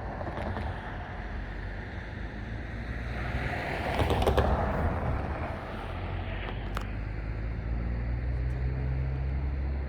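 Diesel locomotive engines running with a steady low rumble. The noise swells about four seconds in, with a few sharp clicks, and the low hum grows firmer in the second half.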